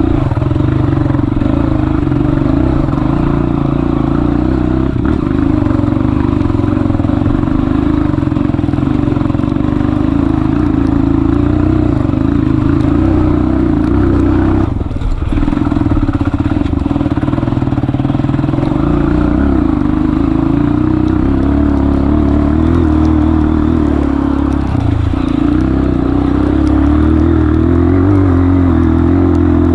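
Honda CRF230F dirt bike's single-cylinder four-stroke engine running steadily under throttle, with brief drops in engine note about halfway through and again near 25 seconds in.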